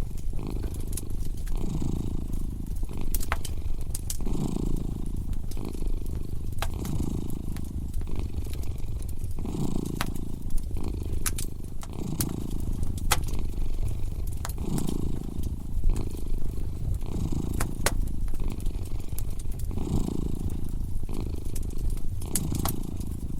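A content cat purring steadily, the purr swelling and easing with each breath about every two seconds, over a crackling fireplace with scattered sharp pops and snaps.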